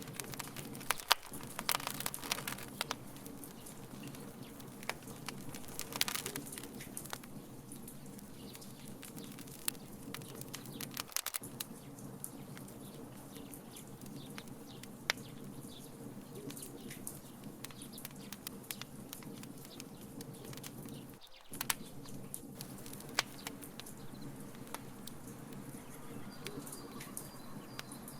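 Wood fire crackling in a fire pit: irregular sharp pops and snaps over a steady low background, coming in denser flurries every few seconds.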